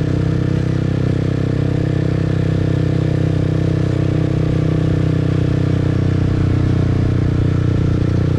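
Motorbike engine running at a steady speed, a low even drone with no revving or change in pitch.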